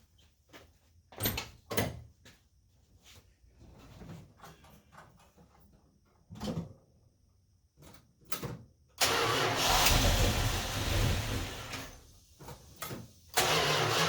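Scattered clicks and knocks of hand work, then about nine seconds in the 1974 Dodge Charger's V8 engine starts and runs. It dips briefly and picks up again near the end.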